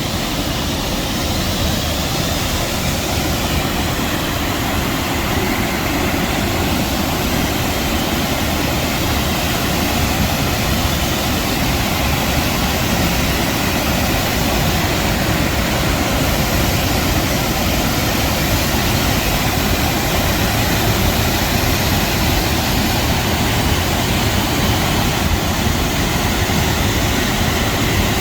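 Steady loud rush of a waterfall, the Sheep River pouring over the falls, an unbroken noise with a deep low rumble underneath.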